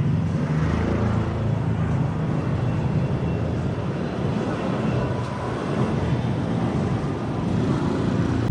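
Busy street traffic: vehicle engines running and passing over steady road noise, with a heavy low engine hum strongest in the first few seconds.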